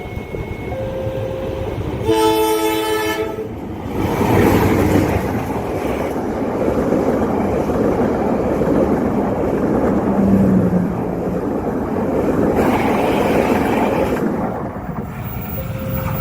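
Railway level-crossing warning alarm sounding in alternating tones. About two seconds in, it is cut across by a train horn blast lasting about a second and a half. Then comes the rumble and rattle of a train passing over the crossing for about ten seconds, with the alarm tones returning near the end.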